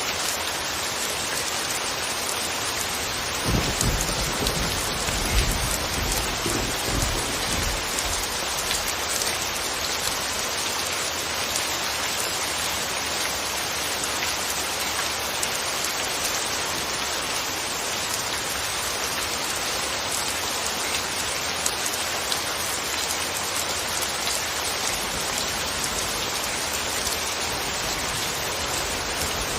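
Steady rain falling, an even hiss with no let-up. About three and a half seconds in, a low rumble of thunder rolls for around four seconds.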